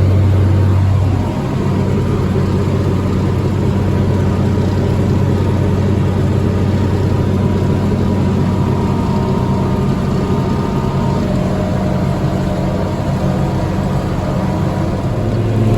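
Mowing-machine engine running steadily while cutting hay, with the deck set low to the ground. Its deepest hum drops away a little about a second in.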